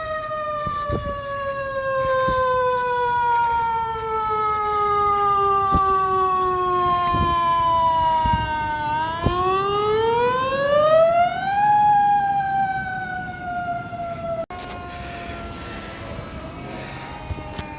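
Fire engine siren with a slow-falling wail that drops for several seconds, climbs again and falls once more. It cuts off abruptly about three-quarters of the way through, and a fainter siren wail follows.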